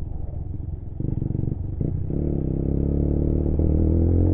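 Lexmoto Assault 125's single-cylinder four-stroke engine under way: quieter at first, then picking up about a second in and revving steadily higher from about two seconds in as the bike accelerates.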